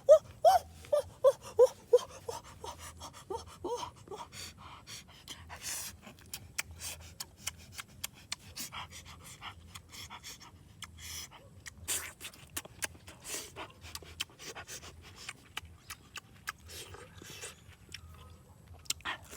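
A quick run of short pitched panting or whimpering sounds, about two a second, for the first few seconds. After that come scattered sharp clicks and crackles.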